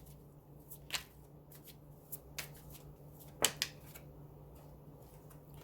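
Cards being handled: scattered soft clicks and rustles, with two sharper clicks close together about three and a half seconds in, over a faint steady hum.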